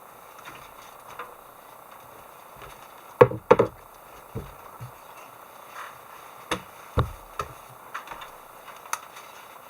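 A series of irregular knocks and thuds, the loudest a quick double knock about three seconds in and another pair a little past six and a half seconds, with lighter taps in between.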